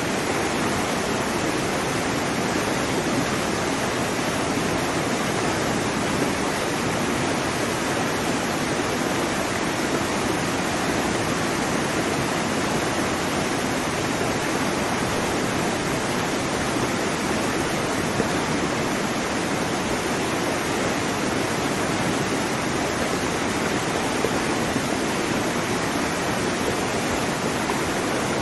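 Waterfall: a steady, unbroken rush of water falling onto rocks and into a pool.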